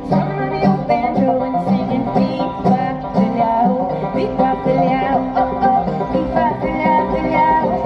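Two banjos playing an instrumental passage, with a steady picked rhythm in the low notes and a quicker plucked melody above.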